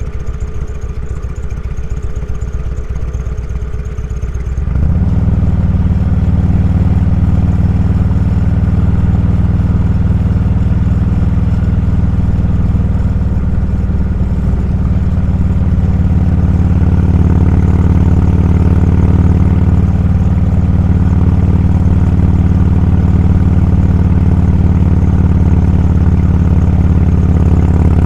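Motorcycle engine idling for a few seconds, then growing suddenly louder about five seconds in as it pulls away, and running steadily under way.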